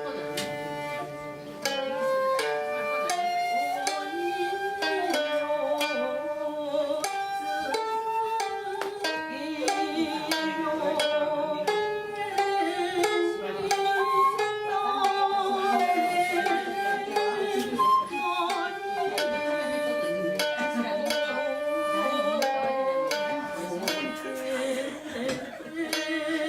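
Traditional Japanese ensemble music: plucked strings picking out quick notes under a long, held shakuhachi melody.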